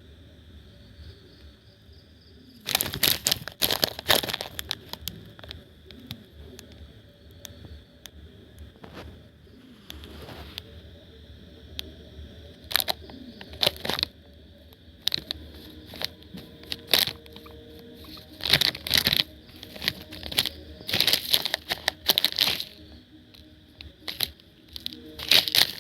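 Irregular bursts of rustling and crinkling, like dry material being disturbed, coming in clusters over a faint steady high-pitched hum.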